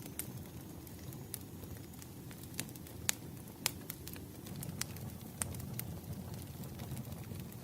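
Wood fire crackling: irregular sharp pops and snaps, about ten in a few seconds, over a steady low rumble of the flames.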